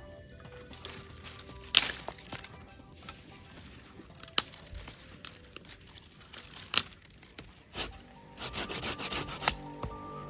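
Scattered sharp taps and crinkling, with a quick run of taps near the end, over soft background music.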